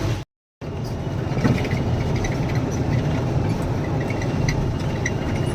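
Lorry's diesel engine running steadily with road noise, heard from inside the cab while driving. The sound cuts out completely for a moment about a quarter second in, then resumes.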